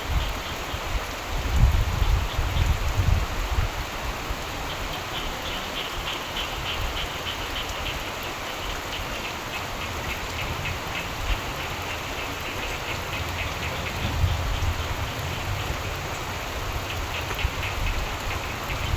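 Steady rain, with frogs calling in rapid pulsed trills from about five seconds in and again near the end. Low rumbles of distant thunder come during the first few seconds and again about two-thirds of the way through.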